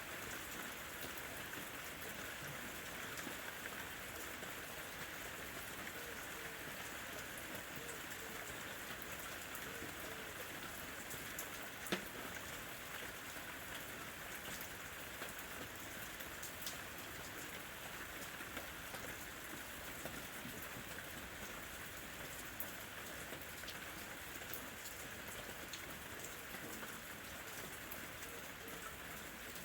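Steady rain falling, with many small drop ticks over an even hiss and one sharper drop hit about halfway through.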